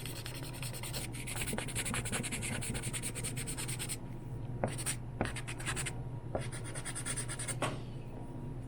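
Furniture scratch marker tip rubbed quickly back and forth over a wooden desk top: a fast scratchy stroking, then a few light clicks or taps in the second half.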